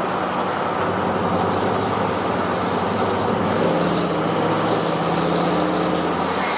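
Turbocharged 2015 GMC Sierra pickup driving, engine and road noise heard from inside the cab; the engine's pitch shifts slightly about halfway through.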